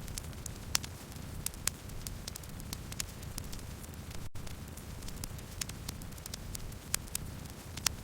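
Wood fire crackling: a steady low rush of burning with sharp pops and crackles scattered throughout, a few of them loud. A brief dropout a little past the middle.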